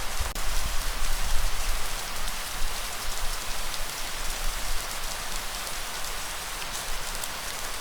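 Steady, heavy rain falling in a dense, even patter, with a low rumble underneath that rises and falls. A single sharp click comes about a third of a second in.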